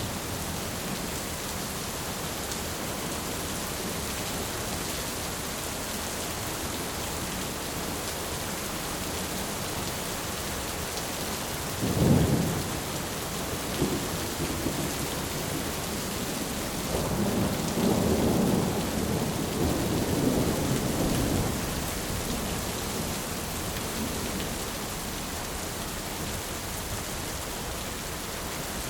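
Steady rain with thunder: a sharp thunderclap about twelve seconds in, a smaller one just after, then a longer rumble of thunder lasting a few seconds.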